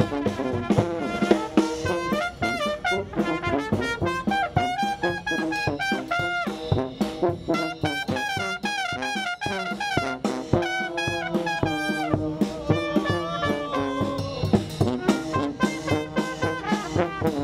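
Military brass band playing a lively jazz number: trumpets and trombones carry a fast, moving melody over a drum kit's steady beat.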